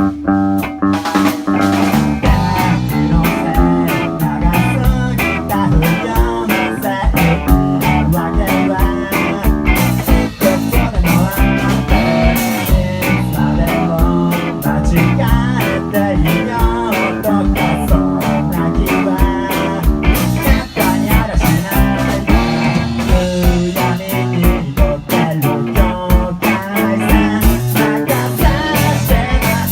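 Rock band playing live: guitar over bass and a steady drum beat.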